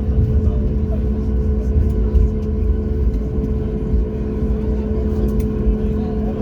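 Boeing 737 cabin noise: a steady low rumble of engines and airflow, with two constant droning hums.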